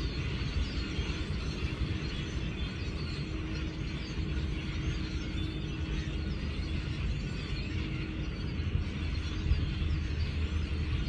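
Dense, continuous chatter of a very large flock of birds, many overlapping chirps and calls, over a steady low rumble.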